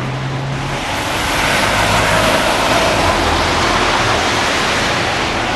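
A heavy vehicle passing close by: a low engine note under a rush of noise that swells about a second in and holds.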